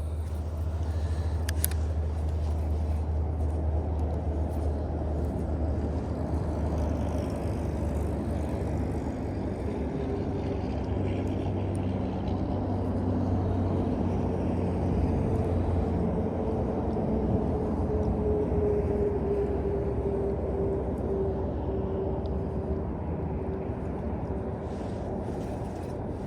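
Steady low rumble of a distant engine, with a faint drawn-out hum that comes in about ten seconds in and fades near the end.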